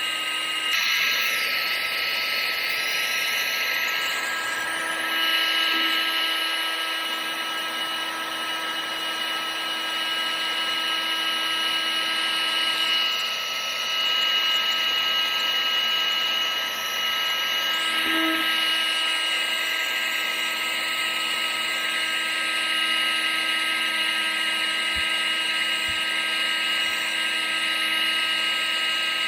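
Vacuum cleaner motor running steadily: a continuous rush of air with a steady high whine over it.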